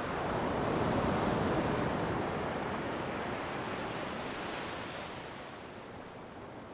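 Ocean waves on a shore: the wash of one wave swells about a second in, then slowly fades away.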